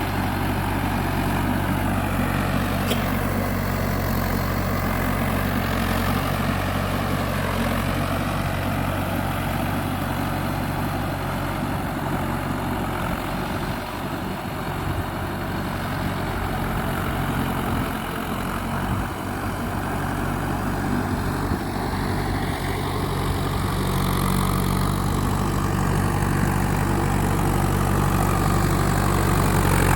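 Mahindra 4x4 tractor's diesel engine running steadily, a little louder toward the end.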